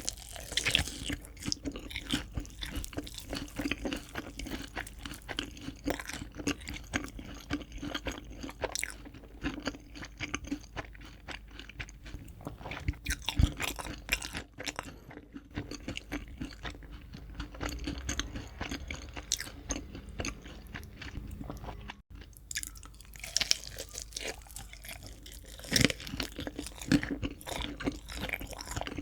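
Crispy fried chicken being chewed, with dense, irregular crunching of the fried crust throughout.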